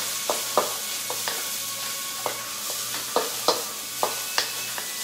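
Diced chicken and vegetables stir-frying in a wok: a steady sizzle, with a cooking utensil clacking against the pan about eight times at uneven intervals.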